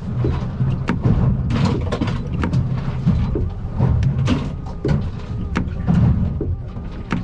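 Aluminium boat running through chop, heard from inside the cabin: a steady low rumble of motor and hull, broken by many irregular knocks and bangs as the hull hits the waves and loose gear rattles.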